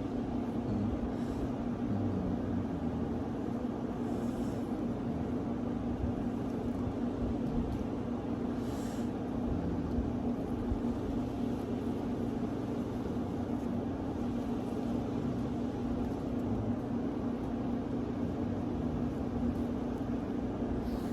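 Steady low mechanical hum with no change in pitch or level, with a few faint hisses about 1, 4 and 9 seconds in.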